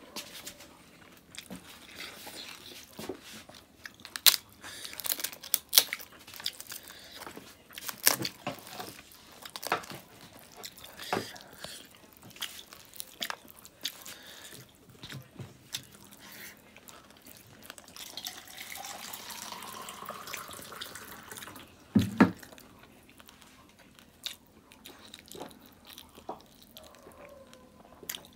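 Close-up eating sounds: wet chewing and lip smacking with many sharp clicks, as mouthfuls of rice and smoked pork are eaten by hand. A dull knock about three-quarters of the way through is the loudest sound.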